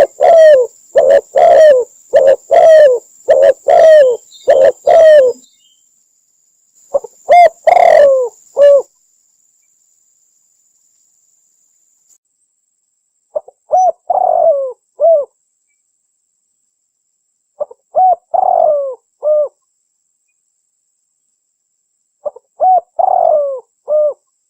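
Spotted dove cooing, loud: a quick run of repeated coos over the first five seconds, then three-part coo phrases about every four to five seconds with silence between. A recorded call of the kind played as a decoy to lure spotted doves into a trap.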